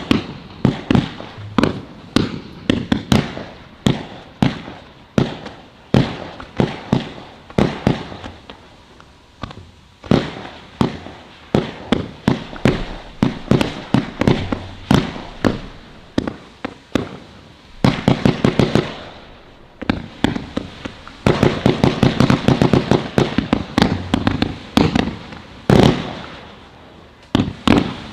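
Firework display cakes and barrages firing: a continuous, irregular string of sharp bangs, with rapid-fire volleys about two-thirds of the way through.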